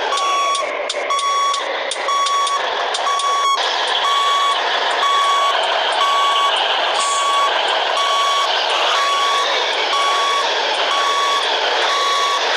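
Reversing alarm beeping at an even pace, about once a second, over the running diesel engine of a Scania 113H truck with a straight-through exhaust.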